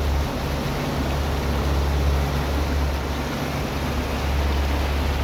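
Boat under way: a steady low engine rumble with the rush of wind and water over it.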